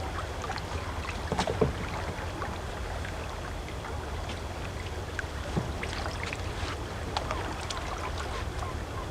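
Kayak paddling on open sea: water splashing and dripping off the paddle in scattered small splashes, over a steady low wind rumble.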